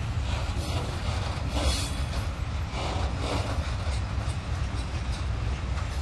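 Freight train of rail tank wagons rolling past in a steady low rumble, with irregular brighter clatters of wheels on the rails every second or so.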